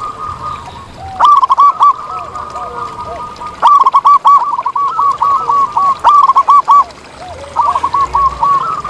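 Zebra doves cooing. One bird gives four loud bursts of rapid, short, arching coo notes. A second bird coos more quietly and lower-pitched in the gaps.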